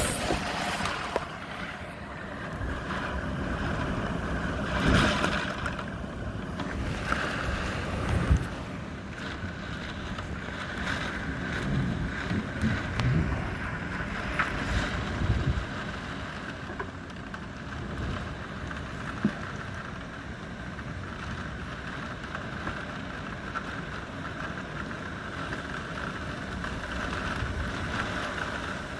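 Thunderstorm with steady, heavy rain falling, and a few louder swells in the noise.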